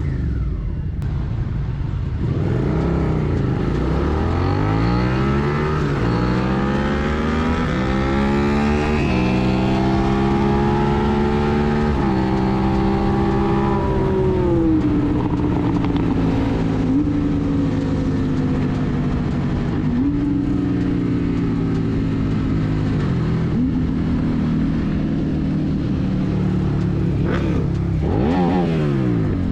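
Motorcycle engine pulling away and accelerating through the gears, its pitch climbing in steps with each upshift, then running at a steady cruise with a few small gear changes. Near the end the pitch dips sharply and swings back up.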